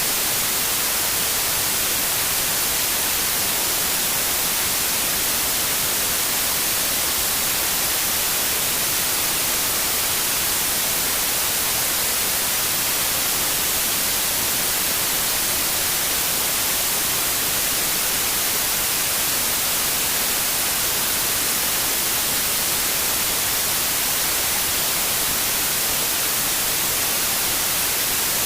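Steady white noise: an even, unchanging hiss, strongest in the high treble, with no change in level.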